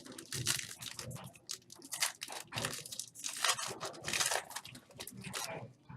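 Foil trading-card pack wrappers being torn open and crinkled by hand, a continuous run of irregular crackling rustles.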